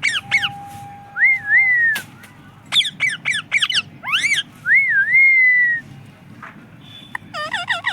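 Pet parrot chirping in quick runs of sharp calls, with two longer wavering whistles that rise, dip and trail off in between; another fast run of chirps comes near the end.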